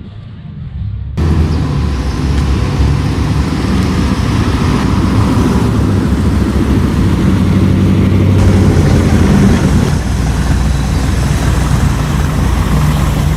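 A car engine running loudly, starting suddenly about a second in. It holds a steady low note, which shifts a little in pitch a few times.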